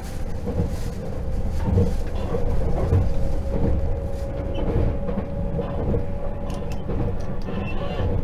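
Inside a JR 681/683 series electric limited express train running on the line. Wheels and track make a steady rumble with occasional soft low thumps, under a steady humming tone.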